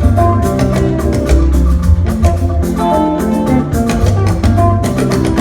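Instrumental passage of Yoruba praise music with a steady percussion beat, a strong bass line and sustained melodic notes, between sung lines.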